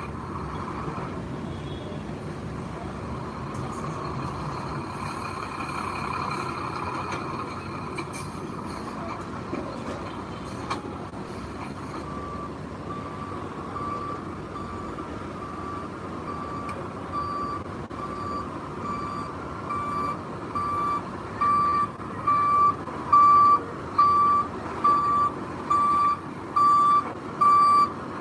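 Heavy construction vehicle's engine running, and from about halfway a back-up alarm beeping about once a second, growing louder toward the end: the machine is reversing.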